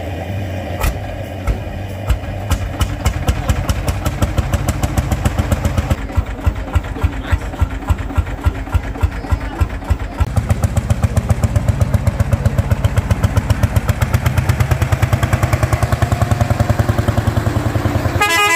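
Lanz Eilbulldog tractor's single-cylinder hot-bulb two-stroke engine running with a slow, even beat, at about three beats a second, then faster from about ten seconds in. A short, loud tonal blare near the end.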